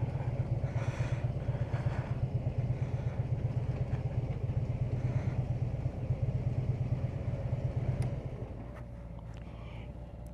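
Harley-Davidson V-twin motorcycle engine running at low speed and idling while the bike is parked. About eight seconds in the louder engine stops, leaving a quieter engine still idling.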